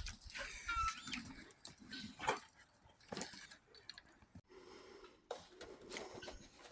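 Faint, scattered animal sounds: a short thin whine about half a second in, among a few small knocks.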